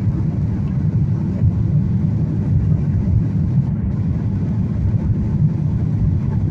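Steady low rumble inside the cabin of a Boeing 737 during landing: engine and airflow noise heard through the fuselage.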